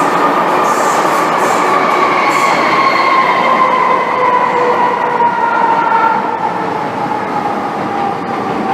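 MTR M-Train heard from inside a car while running: steady wheel and running rumble, with several whining tones that slowly fall in pitch as the train slows.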